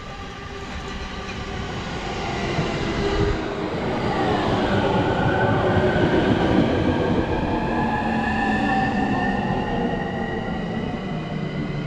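Electric commuter train pulling into a station platform and slowing to a stop. The rumble of the wheels grows louder toward the middle, then eases, and an electric whine shifts in pitch as the train brakes.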